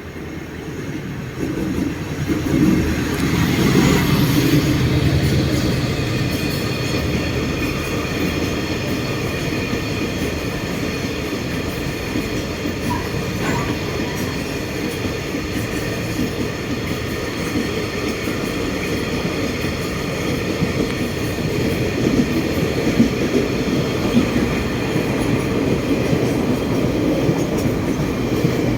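A freight train hauled by an R200 diesel-electric locomotive passing close by. It swells loudest a few seconds in, then becomes a long steady rumble of wagon wheels clacking over rail joints, with a faint high wheel squeal.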